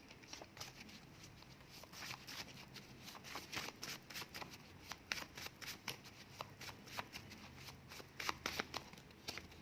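Paper oracle word cards being shuffled and handled, a long irregular run of quick, light card flicks and taps.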